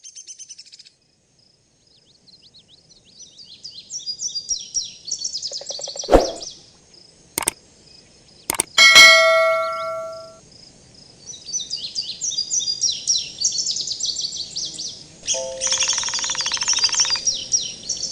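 Small birds chirping rapidly, with a few sharp knocks and then a single struck bell or chime ringing out loudly about nine seconds in and fading away.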